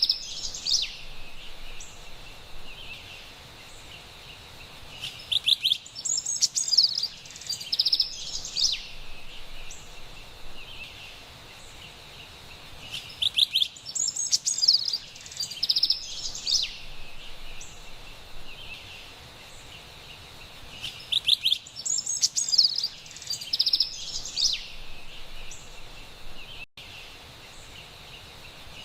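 Carolina wren singing: three loud bursts of rapid, rolling repeated notes, about eight seconds apart, with softer chirping between them.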